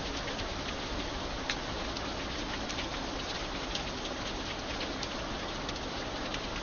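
Light rain falling steadily, with scattered sharper drops ticking on a surface.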